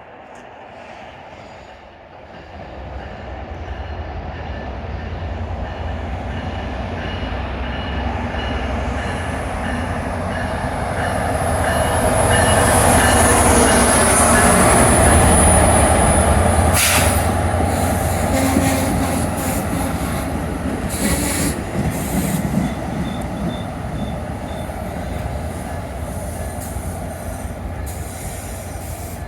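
NJ Transit commuter train moving past: a low rumble builds from about two seconds in and peaks midway, with a thin high wheel squeal at its loudest. Later come a string of sharp clicks from the wheels passing over rail joints.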